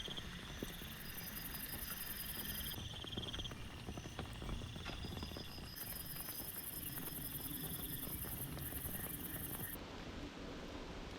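Insects or frogs calling in high, finely pulsed trills that start and stop in stretches of a few seconds, some overlapping. Underneath is a faint steady hiss with scattered small clicks.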